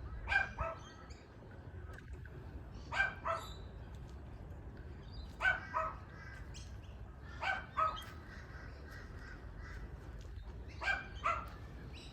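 An animal calling in short double notes: five pairs of calls, one pair every two to three seconds.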